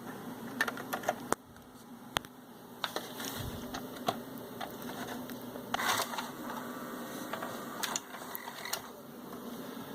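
Panasonic NV-P05 VHS recorder's tape-loading mechanism running: a small motor whirring under a steady hum, with scattered clicks and clunks from the mechanism. The mechanism sounds weak and slipping, which the repairer takes for a lack of power.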